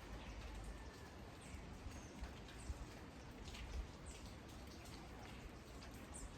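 Steady light rain falling, with scattered individual drops and drips and a few faint, short high chirps.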